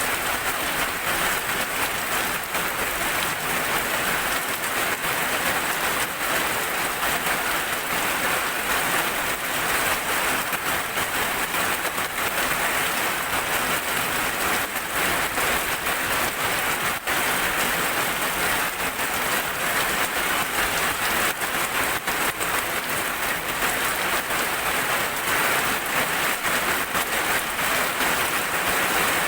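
Rain falling steadily, with many separate drops ticking on a surface.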